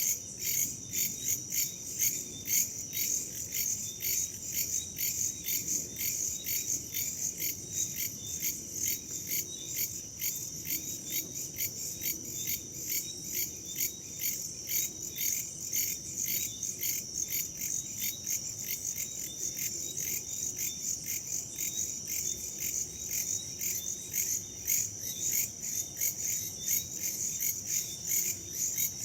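A chorus of crickets and other insects chirping in steady, rapid, high-pitched pulses, with a faint low rush of wind underneath.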